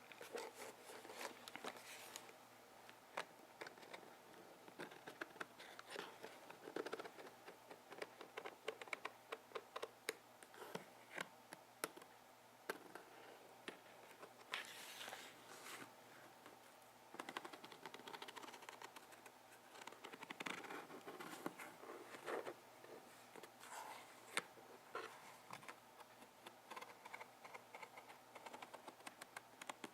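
Faint close-up handling sounds: many small irregular clicks, taps and crackles with soft scraping and rustling in between.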